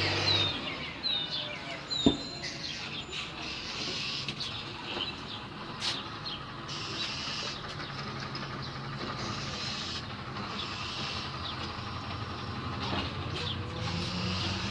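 A bird gives a quick run of short chirps in the first second, over a steady outdoor hum. There is a sharp click about two seconds in, and the low rumble of a vehicle builds near the end.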